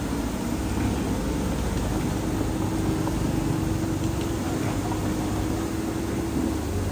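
Heavy diesel engine of earthmoving machinery running steadily: a continuous low rumble with a steady hum.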